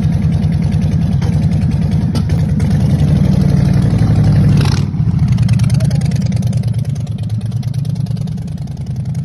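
Harley-Davidson Street Bob's Milwaukee-Eight V-twin running through a Blow Performance aftermarket exhaust, idling with a pulsing beat. It is given a throttle blip that builds to about halfway, ends in a short sharp crack as the throttle snaps shut, and drops back to idle.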